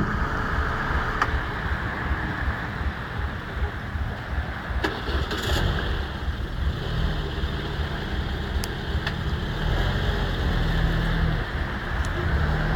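A car's engine running steadily with a low rumble, with a few faint clicks over it.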